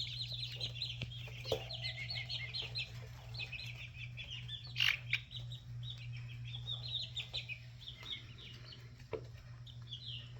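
A flock of six- to seven-week-old chicks, mostly red junglefowl, peeping and chirping continuously in rapid short high calls, with one louder call about five seconds in. A steady low hum runs underneath.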